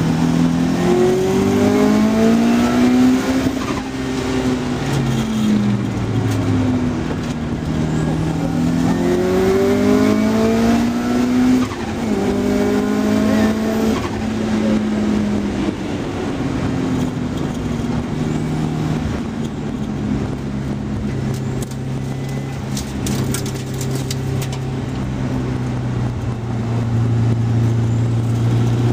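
Car engine heard from inside the car on a race track, revving up and dropping back several times as it shifts gear through the first half, then running at steadier revs.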